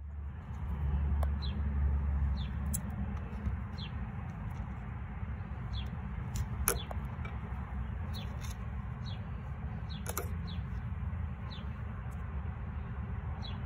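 A small bird chirping over and over in short falling notes, over a steady low rumble, with a few sharp clicks.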